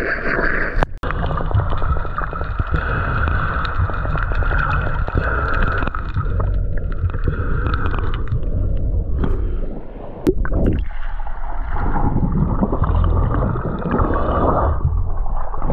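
Loud, churning water noise with gurgling, broken by two abrupt cuts, about a second in and about ten seconds in.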